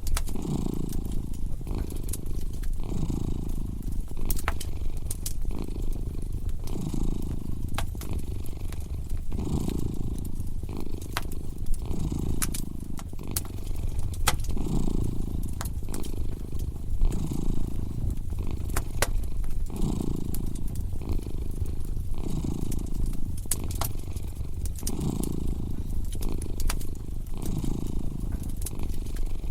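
A cat purring steadily, its low purr swelling and fading about every two and a half seconds, over a wood fire crackling with sharp pops scattered throughout.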